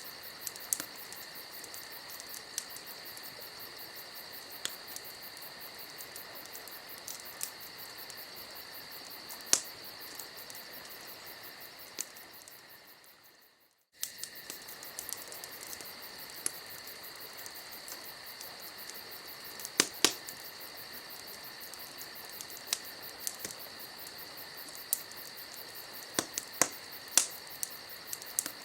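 Campfire ambience: a wood fire crackling with irregular sharp snaps over a steady chorus of crickets chirping. The whole sound fades away to near silence about 13 seconds in and starts again suddenly a second later.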